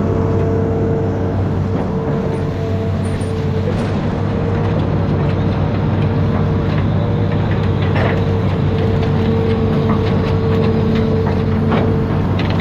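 Amphibious excavator's diesel engine running steadily under load, with a steady whine and occasional light clicks and knocks.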